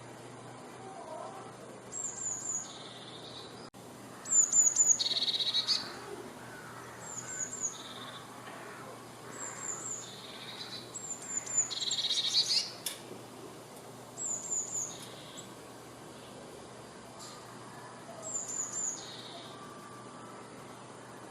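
A tit singing a repeated phrase: three or four quick, high, down-slurred notes, then a lower trill, given every two seconds or so. Two of the phrases are much louder and longer than the others.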